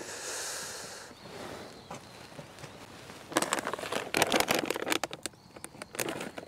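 A soft rushing hiss for about the first second, then from about three seconds in a run of irregular rustles and clicks, like gear being handled.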